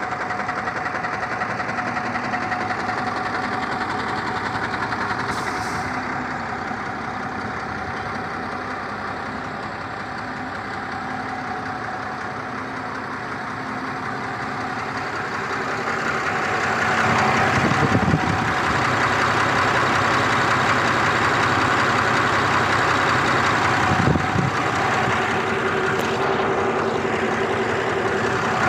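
Tata LPT 4823 truck's diesel engine running steadily, growing louder about two-thirds of the way through, with a couple of brief knocks.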